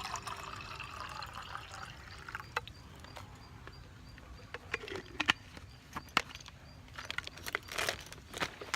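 Water being poured into a container for tea, for about the first two and a half seconds. After that, a scattered series of sharp knocks and clicks as gear is handled.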